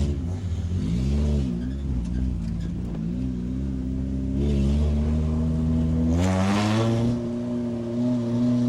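Race car engine revving in a few quick rises and falls, running steadily, then climbing sharply in pitch about six seconds in and holding at higher revs.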